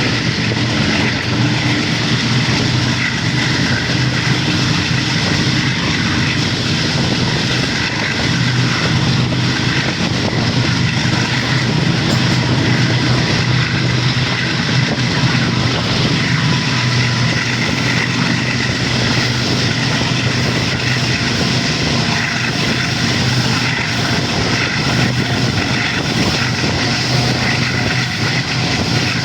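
GEU-40 diesel-electric locomotive's engine running steadily as the train departs, a loud, even drone with a deep hum.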